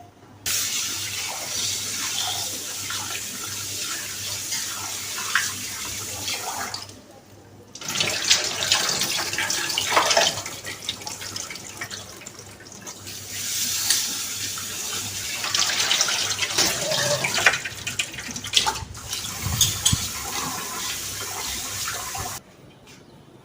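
Tap water running into a bowl while rice is washed by hand, with uneven splashing. It runs in two long spells with a short break about seven seconds in, and stops shortly before the end.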